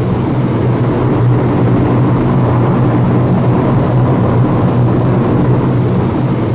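Steady, unbroken drone of a four-engine Hercules turboprop transport's engines and propellers in flight.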